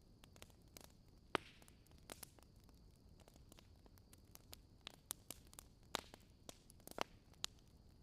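Wood fire crackling: irregular small snaps and clicks over a soft steady hiss, with a few louder pops, one about a second and a half in and two more near the end.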